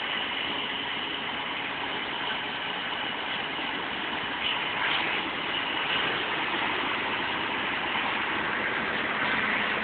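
Vehicle engines idling steadily, heard as an even hiss with no distinct events.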